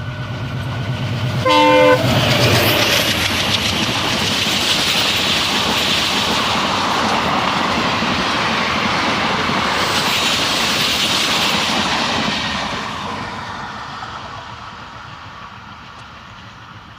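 A passenger train gives one short horn blast about a second and a half in, then passes at speed, its wheels clattering rapidly over the rail joints. The noise fades away over the last few seconds as the train recedes.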